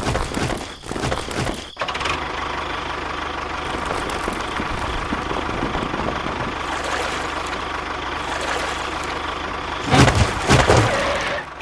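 An engine idling steadily, with a louder surge near the end.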